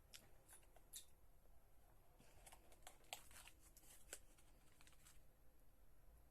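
Near silence, broken by faint scattered clicks and rustles of the maple fudge and its packaging being handled.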